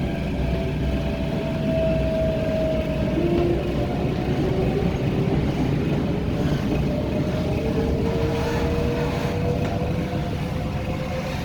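MTR Tung Chung Line K-Train, a Hyundai Rotem electric multiple unit, running, heard from on board: a steady low rumble of wheels on rail with a thin motor whine that rises slowly in pitch from about three seconds in as the train gathers speed.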